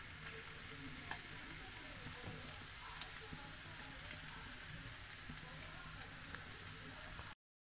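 Tempering of chillies, curry leaves, peanuts and grated raw mango sizzling steadily in hot oil in a nonstick pan, with a wooden spatula scraping and a few light clicks. The sound cuts off abruptly near the end.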